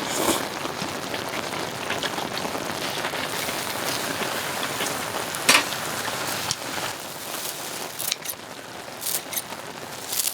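A pan of stir-fried webfoot octopus sizzling with a steady hiss, with a few sharp clicks of utensils.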